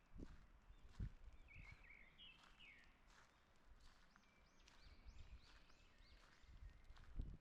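Songbirds chirping in a forest, faint, with a run of short repeated high notes about halfway through. Footsteps thud softly on the path a few times.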